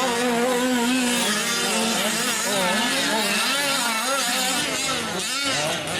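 Several 1/5-scale gas RC trucks' small two-stroke engines racing together, overlapping, their pitches rising and falling as they throttle on and off. The sound dips briefly about five seconds in.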